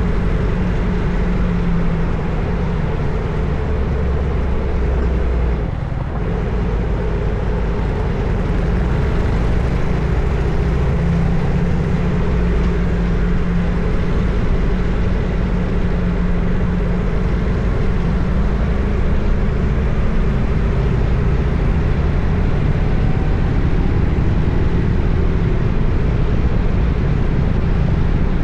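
Harley-Davidson FXSTS Springer Softail's Evolution V-twin engine running under way at a steady pace, with its pitch shifting slowly. The sound drops briefly about six seconds in.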